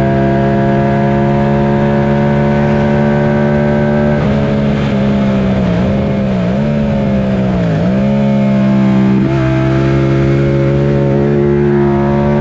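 Yamaha FZ-07 689 cc parallel-twin engine running at fairly steady revs under way. About halfway through its pitch dips briefly three times, then once more a little later, each time coming straight back up as the throttle is eased and reopened.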